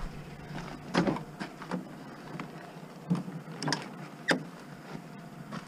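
Handling noises around a vehicle: about half a dozen separate short clicks and knocks, like door and latch parts being worked, the loudest about a second in and about four seconds in.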